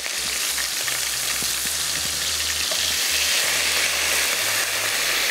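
Boiled mutton pieces frying in hot oil: a steady sizzle, with a wooden spoon stirring in a pan.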